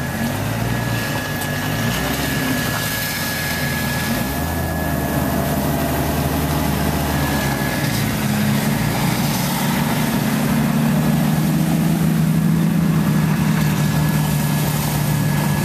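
Jeep Wrangler TJ engine running at low crawling speed on a trail, heard from inside the cab. The engine note shifts pitch about four seconds in and again about eight seconds in, and grows slightly louder over the second half.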